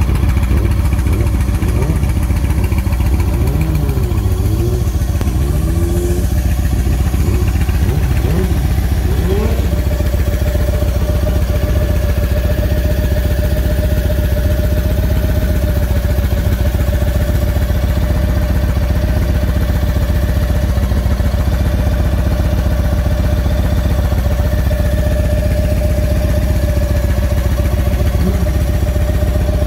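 Yamaha Raider SCL's big air-cooled V-twin idling steadily, a deep even pulse, with some rising and falling tones over it in the first ten seconds.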